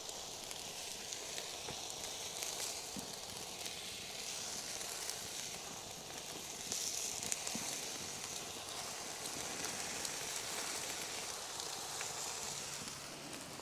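Food sizzling on a cast iron griddle over a campfire, a steady hiss with a few faint crackles from the fire; buns are steaming on the hot plate.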